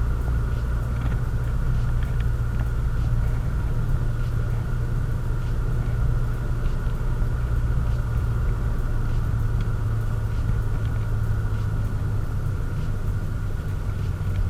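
Hyundai Genesis Coupe with the 2.0-litre turbocharged four-cylinder, driving at a steady pace: a constant low rumble of engine and road noise.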